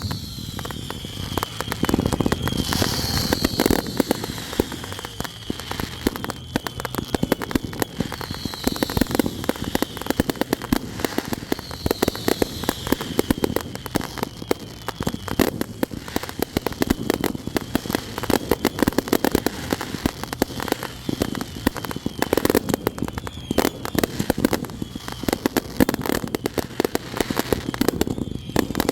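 Fireworks going off continuously: dense crackling and popping with heavier booms every few seconds, and thin high whistles that glide in pitch now and then.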